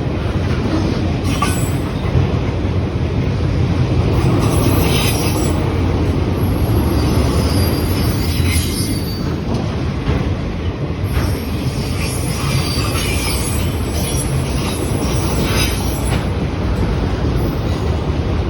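Freight cars of a manifest train rolling past at close range with a steady low rumble. Steel wheels squeal on the rails several times, each squeal lasting about a second.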